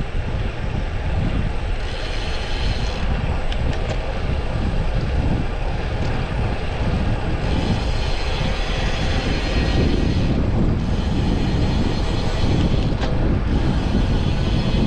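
Wind buffeting the microphone of a moving road bicycle, with a steady rush of road noise underneath.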